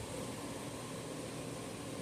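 Steady, fairly quiet hiss of background noise, with no distinct events.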